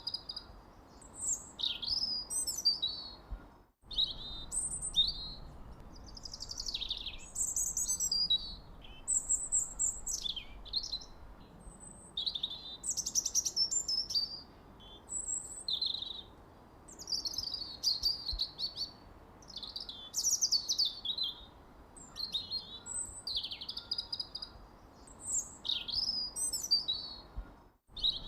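Several songbirds chirping and trilling almost without pause: many short, high calls, some rising, some falling, overlapping one another over a faint background hiss. The sound cuts out briefly about four seconds in and again just before the end.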